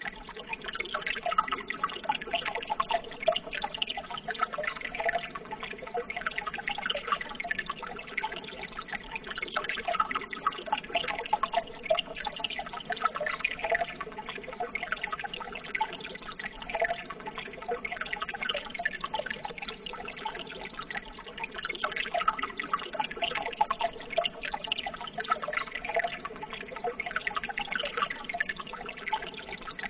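Running water trickling steadily, with many small drips and splashes, unchanging throughout.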